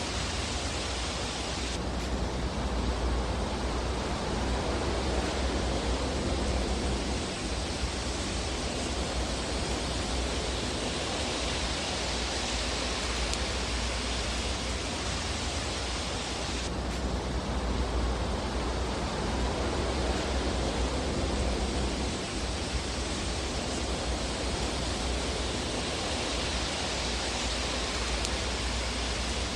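Fireplace ambience track: a steady rushing fire roar with no distinct crackles. The hiss changes abruptly about two seconds in and again about fifteen seconds later, as the looped recording repeats.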